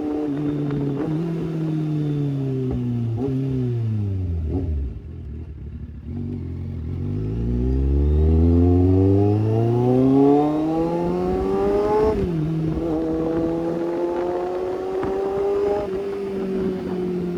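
Kawasaki Z800 inline-four through an Austin Racing aftermarket exhaust, running loud: the revs drop away over a few seconds, then climb steadily for about six seconds, fall sharply at a gear change, and settle to a steady run.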